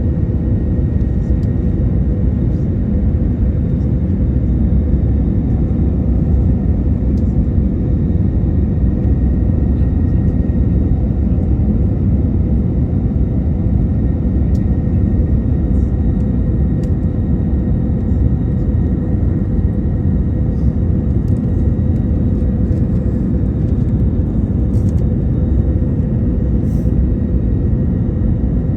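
Jet airliner cabin noise heard from a passenger seat: a steady loud rumble of the engines and airflow with a faint steady whine over it.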